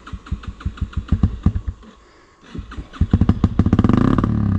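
Small single-cylinder motorcycle engine idling with an even, slow thump. About three seconds in it gets much louder, revving up.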